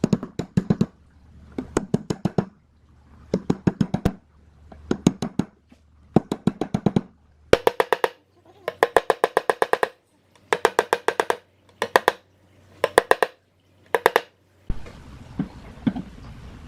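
Rapid bursts of hammer taps on metal, several quick strikes in each burst with short pauses between. The bursts in the second half ring with a clear pitch.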